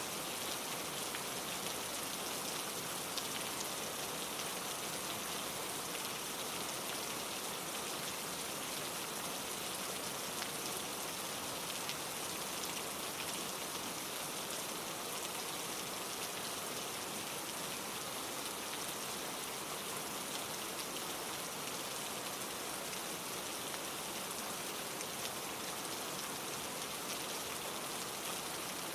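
Steady rain with dense, fine raindrop patter falling on leaves.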